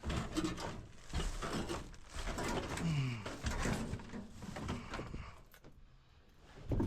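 Rummaging through gear: a run of irregular knocks, clicks and rustles as things are moved and handled, with a short low falling tone about three seconds in.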